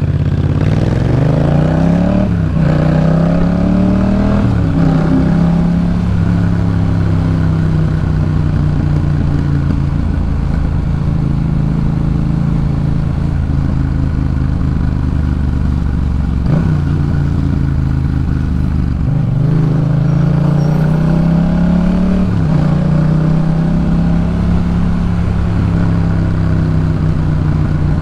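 Yamaha MT-07 parallel-twin engine through a Jeskap K4 full aftermarket exhaust. It accelerates hard with two quick upshifts in the first five seconds, then cruises steadily. About twenty seconds in it pulls up through another gear and settles back to a steady cruise.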